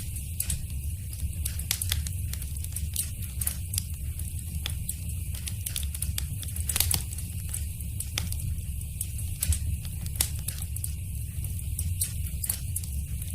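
Wood fire burning in a fireplace, crackling with irregular sharp pops over a steady low rumble; two of the pops, about seven and nine and a half seconds in, stand out as the loudest.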